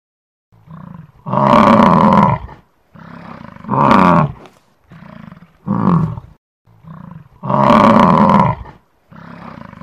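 Wildebeest calling: four loud, drawn-out calls, each preceded by a shorter, softer sound.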